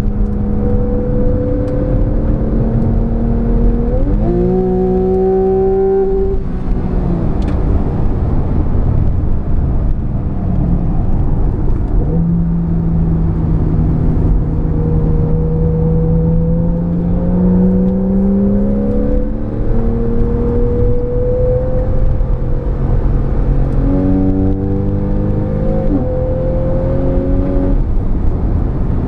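Porsche 991 Carrera S's 3.8-litre flat-six driven hard. The revs climb steadily under acceleration, with sudden jumps and drops in pitch at gear changes: a sharp rise about four seconds in, a long steady climb through the middle, and another sharp rise near the end. Constant road and tyre noise runs underneath.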